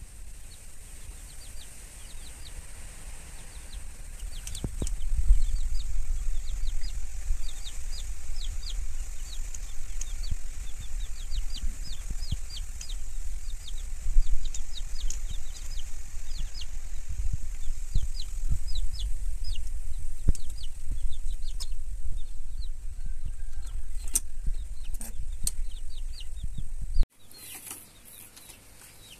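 Small birds chirping rapidly over and over, short high falling notes several a second, over a low rumble; the sound drops sharply near the end.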